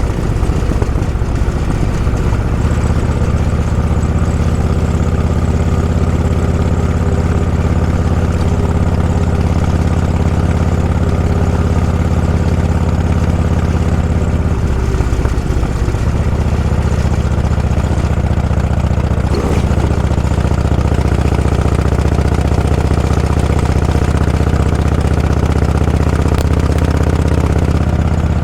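A vehicle's engine running steadily under way. Its note dips and shifts about halfway through, like a gear change, then settles again.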